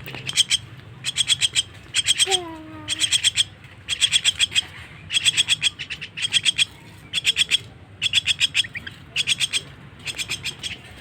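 Young jalak (starling) chick calling in repeated runs of rapid, harsh, high chips, roughly one run a second. A short falling lower-pitched call comes about two seconds in.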